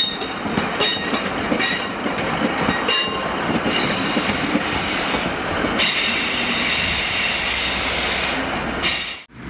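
Class 150 Sprinter diesel multiple unit passing on the running line: its wheels clatter over rail joints for the first few seconds. Then comes a steady high-pitched wheel squeal, which cuts off abruptly near the end.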